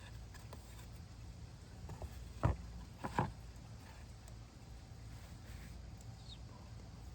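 A few light knocks over a low steady hum, two of them louder, about two and a half and three seconds in.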